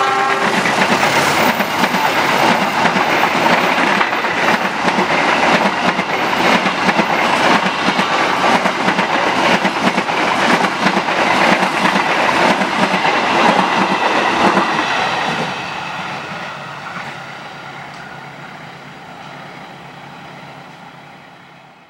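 Passenger coaches of a diesel-hauled train passing close by at speed, their wheels clattering over the rails. About fifteen seconds in the sound starts to fade as the end of the train draws away.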